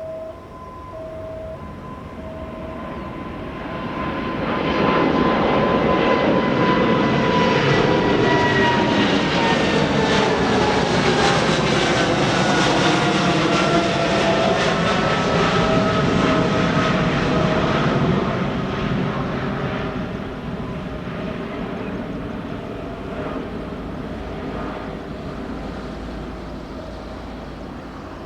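Airliner's jet engines passing by. The noise swells, holds loud for about thirteen seconds, then fades, while the engine whine slides down in pitch as the aircraft goes past.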